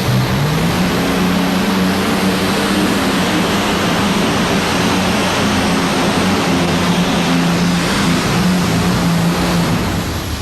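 Modified pulling tractor's multiple Allison aircraft engines, fuel-injected and twin-turbocharged, running at full power through a pull. Their pitch rises in the first second, holds high, and drops near the end as the run finishes.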